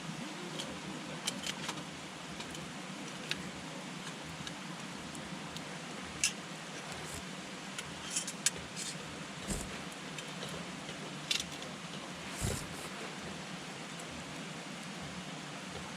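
Wood campfire burning: a steady hiss with irregular sharp crackles and pops of the burning wood, about ten in all, a few louder snaps among them.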